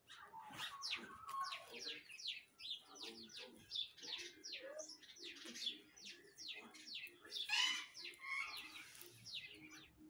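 Birds chirping: many short, quick chirps that each fall in pitch, several a second, with a louder, rougher call about seven and a half seconds in.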